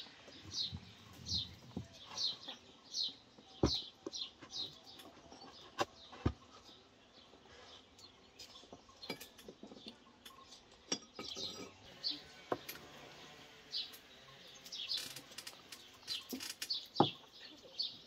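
Small birds chirping: short, high chirps repeated about once a second, in runs with pauses. A few sharp knocks, like a knife or dishes on a wooden board or table, come in between, the loudest near the end.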